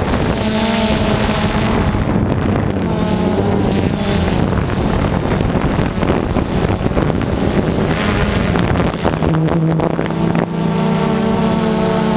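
Dirt bike engines revving up and down, with wind buffeting the microphone; near the end one engine holds a steadier pitch.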